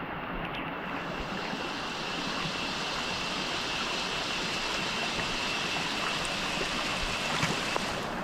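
Steady rushing of water, with a faint steady high-pitched tone running through it.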